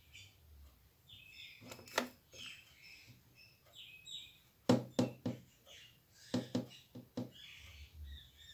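Faint bird chirping in the background, with a scattering of sharp clicks. The clicks are the loudest sounds, in two quick runs of about three, one about halfway through and one shortly after.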